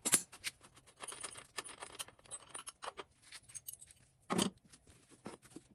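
Irregular metallic clicks, clinks and light scrapes of hand tools and metal parts being handled, with a louder clank at the start and another about four seconds in.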